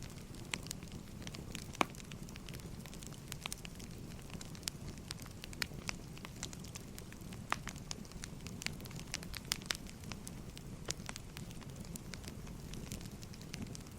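Wood fire crackling: irregular sharp pops and snaps of burning firewood over a steady low rumble of the flames.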